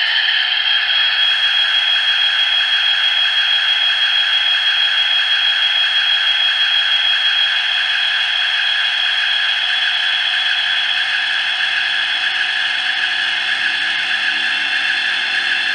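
Howes generic diesel sound decoder in an OO-gauge Heljan Kestrel model locomotive, playing a steady diesel engine running at speed step 7 through a small 23 mm speaker. It is very loud, thin and high with a slight hiss, and some lower engine tones come in near the end.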